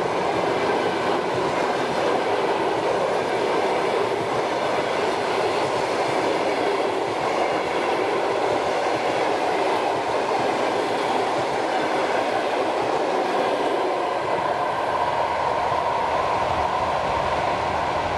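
Passenger train coaches rolling past on the rails: a steady noise of steel wheels running on track.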